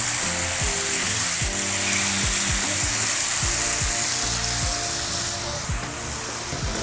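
Chicken sizzling as it fries in hot oil in a skillet, with background music underneath.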